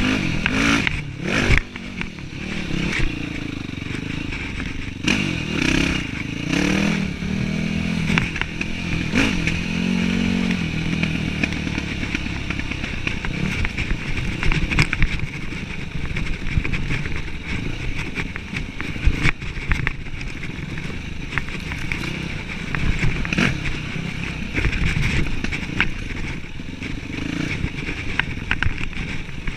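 Yamaha WR dirt bike engine running while ridden, its pitch rising and falling with the throttle in the first third, then steadier, with occasional knocks and rattles.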